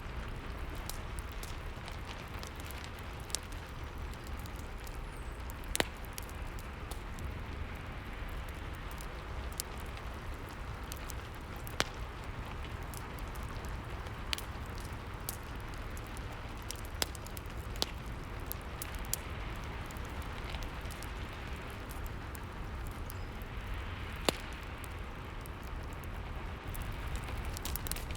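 Rain and fireplace ambience: a steady hiss of rain over a low rumble, with the fire's sharp crackles and pops scattered through it and a few louder pops standing out.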